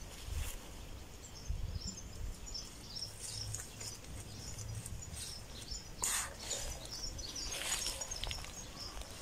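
Small birds chirping over and over in short high notes, over a low rumble, with two brief rustles in the second half.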